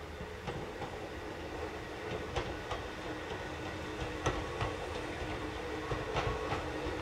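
Hakone Tozan Railway electric train approaching slowly on its mountain line: a low rumble that grows gradually louder, broken by scattered sharp clicks from the wheels on the track.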